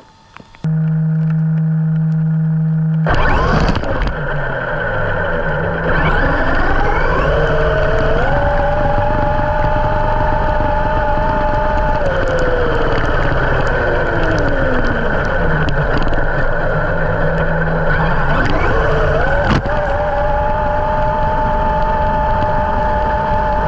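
Traxxas X-Maxx 8S brushless RC monster truck driving, over the rough noise of its tyres on the ground. The motor's whine rises as it speeds up, holds steady for several seconds, falls away, then climbs again near the end. A steady low hum comes in suddenly for the first couple of seconds.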